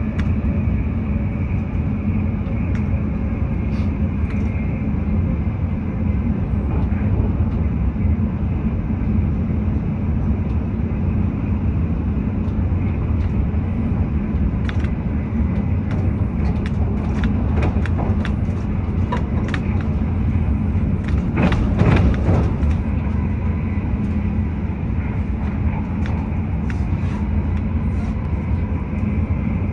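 Running noise inside an electric passenger train at speed: a steady low rumble of wheels on the rails. Scattered clicks and clatter run through it, with a louder burst of clatter about two-thirds of the way through.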